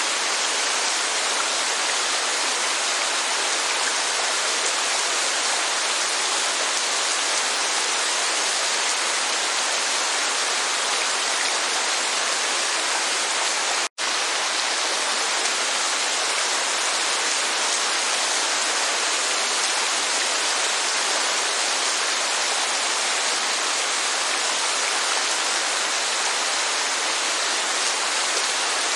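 Steady, heavy rainfall, an even hiss of falling water with no single drops standing out. It cuts out for an instant about halfway through, then carries on unchanged.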